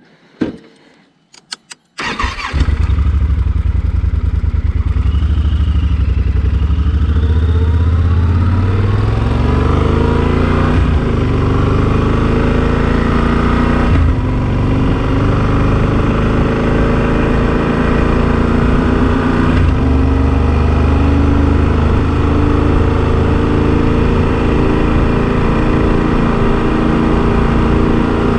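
A few sharp clicks, then the Yamaha Super Ténéré XT1200's parallel-twin engine comes in suddenly about two seconds in and runs loud and steady. It climbs in pitch as the bike pulls away, with gear changes around the middle, then holds an even cruising note.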